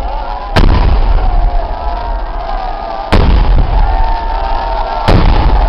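Festival fireworks going off: three loud bangs about two to two and a half seconds apart, each followed by a low rumble, over a continuous crowd din.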